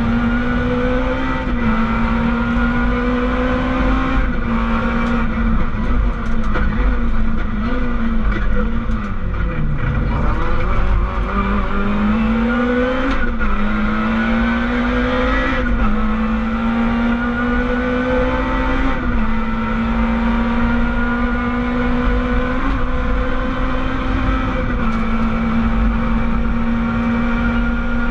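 Rally car engine heard from inside the cockpit under hard driving, held at high revs, its pitch climbing and dipping with gear changes and throttle lifts. About ten seconds in the pitch drops sharply, as for braking and downshifting, then climbs again.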